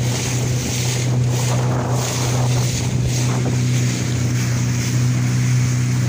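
Motorboat engine running at a steady cruising speed with a constant low hum, under wind rushing over the microphone and water noise from the moving hull.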